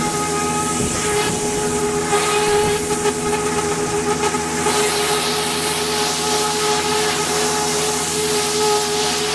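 Pressure washer running steadily: a constant droning tone under the hiss of the high-pressure water jet, the hiss growing louder about halfway through.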